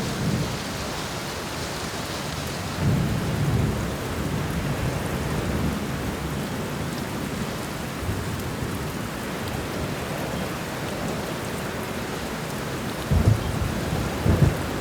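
Steady heavy rain with low thunder rumbling, swelling about three seconds in and again near the end.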